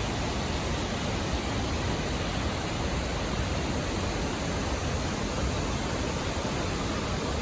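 Dudhsagar Falls, a large waterfall, rushing steadily as the water pours down, heard close up as an even roar without breaks.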